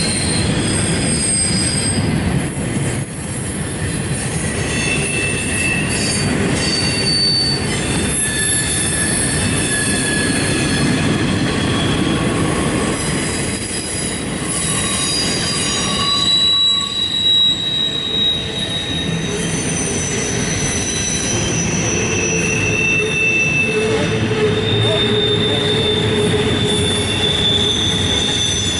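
Double-stack intermodal freight cars rolling past with a steady heavy rumble from the wheels on the rails. Short high-pitched wheel squeals come and go throughout.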